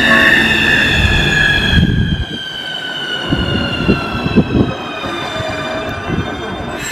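Keikyu electric train passing over a level crossing: its traction-motor whine falls slowly and steadily in pitch as the train slows, with the clack of wheels over rail joints.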